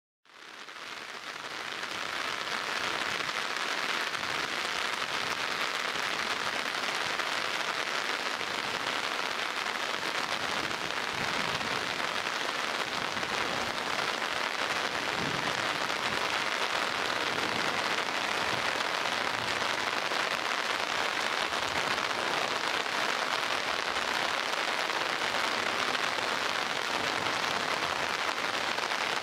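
Heavy rain falling in a steady downpour, a dense even hiss that fades in over the first couple of seconds.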